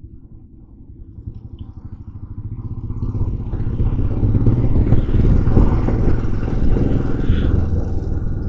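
Motorcycle engine running with wind noise on the riding microphone, growing louder from about two seconds in and then holding steady.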